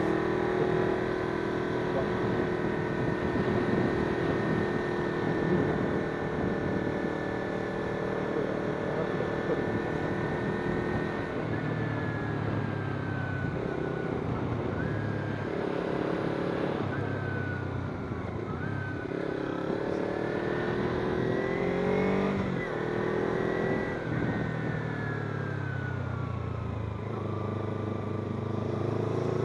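Kawasaki Z250's 250 cc parallel-twin engine while riding: it holds steady revs for about the first ten seconds, then the revs rise and drop again several times through the second half as the rider accelerates, shifts and slows, over a steady rush of wind noise.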